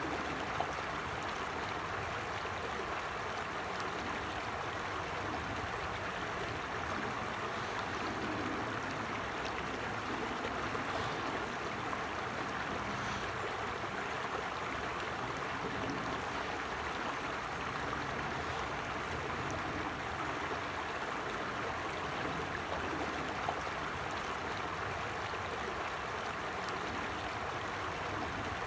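A creek flowing steadily: an even, unbroken rush of running water.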